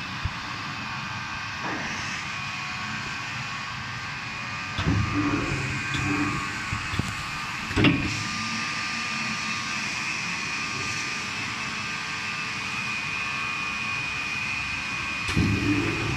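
Hot-welding machines on a filter-bag production line running with a steady hum and a high whine. There are two spells of louder low rumbling, and a sharp knock about eight seconds in.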